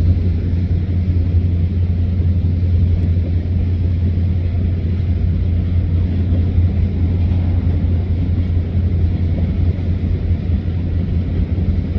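Steady low drone of a car on the move, engine and tyre noise heard from inside the cabin.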